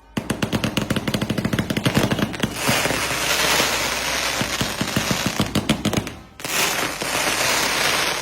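Multi-shot firework cake firing: a rapid string of bangs that merges into a dense, continuous crackling after a couple of seconds. It dips briefly about six seconds in, then crackles on.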